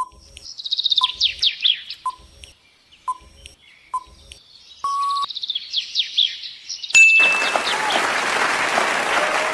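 Birdsong chirping over a countdown timer that ticks about once a second, with a short beep about five seconds in. From about seven seconds a loud, even rushing noise takes over.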